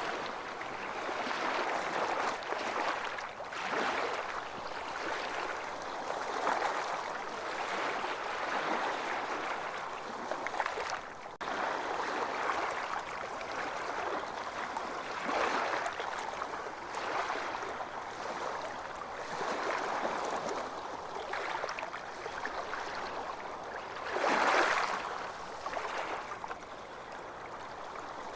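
Small ocean waves washing onto a beach in a continuous wash, with a swell every few seconds; one wave breaks louder about 24 seconds in.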